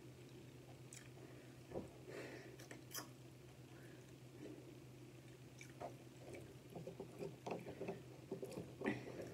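Faint close-up chewing of steak, with soft mouth clicks and smacks that are sparse at first and come more often in the second half, over a steady low hum.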